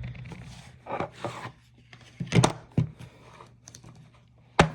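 Objects being handled: a few short knocks and rubbing scrapes, the sharpest near the end, over a low steady hum.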